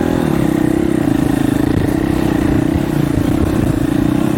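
Dirt bike engine running at a steady speed, with wind rumbling on the microphone.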